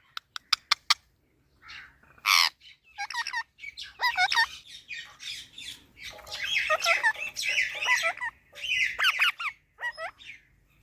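Parrot squawking and chattering in runs of bending, warbling calls, after a few sharp clicks in the first second and a loud single squawk about two seconds in.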